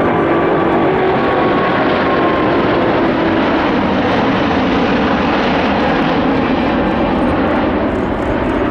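Four Rolls-Royce Trent 970 turbofans of an Airbus A380-841 at takeoff power: a loud, steady jet noise that holds level throughout.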